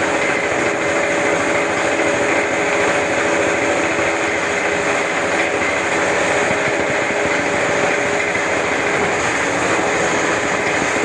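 Homemade CNC lathe running steadily while threading a pipe: a continuous mechanical noise with a steady hum under it.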